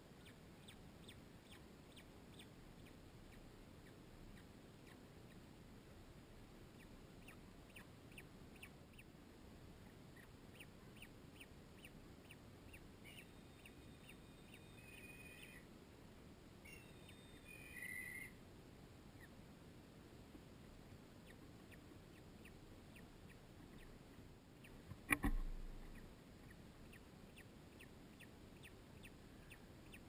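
Faint bird peeping: short chirps repeated at a quick, even pace, with a few louder calls around the middle, and a single sharp knock late on.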